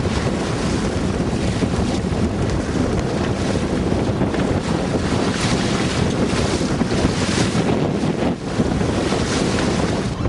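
Wind buffeting the microphone in gusts aboard a sailing yacht, over the steady rush of the sea.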